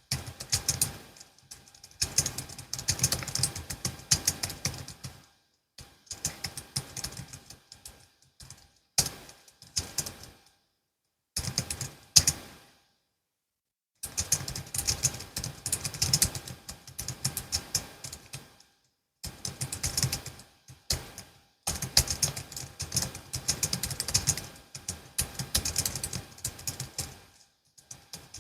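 Typing on a Logitech MX Keys S low-profile keyboard: runs of rapid key clicks lasting a second or few, broken by short pauses, with a silent gap of about a second and a half midway.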